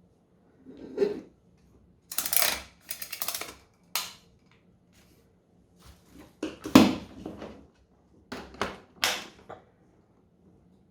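Irregular clicks, knocks and rustles of parts and packaging being handled, with a loud knock about seven seconds in.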